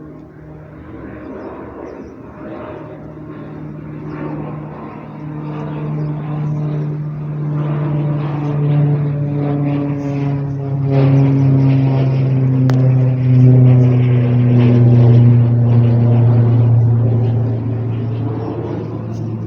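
An aircraft passing over: a steady engine drone that grows louder to a peak about two-thirds of the way through, its pitch slowly falling as it goes by.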